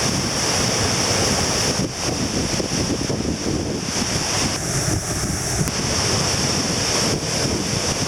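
Surf breaking and washing up the shore, with strong wind buffeting the microphone.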